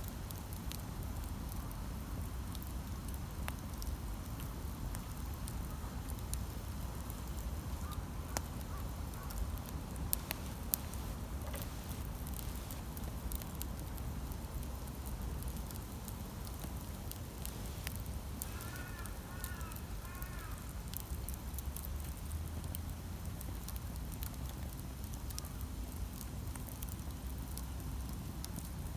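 Wood campfire crackling, with scattered sharp pops over a steady low rumble. About two-thirds of the way in, a bird calls a quick series of short chirps.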